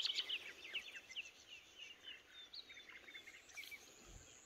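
Small birds chirping and singing: a quick run of short, high calls in the first second or so, then scattered chirps.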